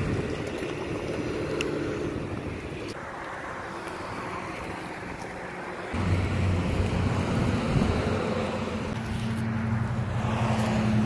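Steady hum of an idling car engine with wind noise on the microphone. About six seconds in, the hum turns lower and louder.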